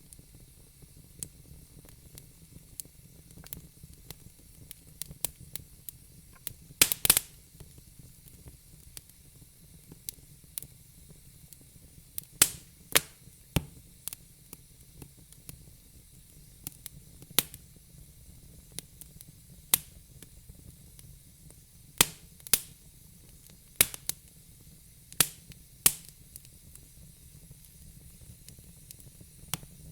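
Fire crackling: irregular sharp pops and snaps over a faint steady hiss, with a quick cluster of loud pops about seven seconds in.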